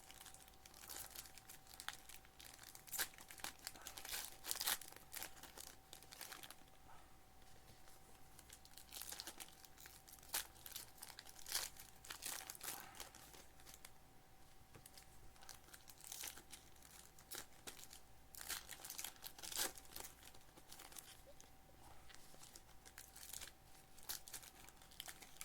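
Foil trading-card packs being torn open and crinkled by hand, in irregular crackling bursts; the wrappers are stubborn and hard to rip. A faint steady hum sits underneath.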